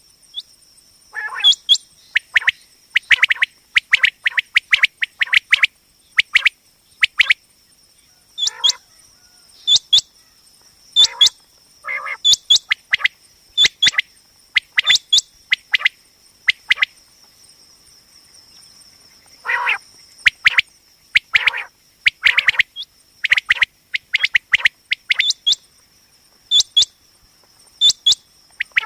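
Common quail calling: short, sharp notes repeated in quick irregular groups, with brief pauses, over a faint steady high-pitched whine.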